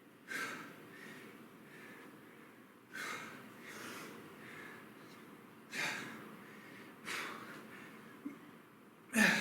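A man breathing hard during a kettlebell exercise set. Five sharp, forceful exhales come every one to three seconds, and the last, near the end, is the loudest.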